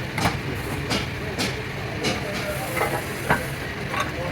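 Workshop machinery noise: a steady low running hum with irregular sharp metallic clacks and short hisses, about one every half second to second.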